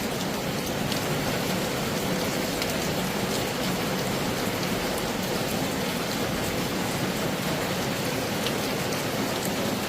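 Heavy rain falling, a steady hiss with scattered individual drop ticks.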